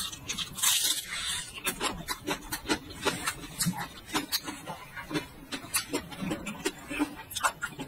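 Close-miked crunching as a bite of raw garlic bulb is chewed: a denser crunch about a second in, then a steady run of crisp crunches a few times a second.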